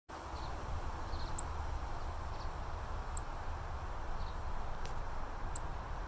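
Three short, high bird chips about two seconds apart, with a few fainter high notes between them, over a steady low rumble on the microphone.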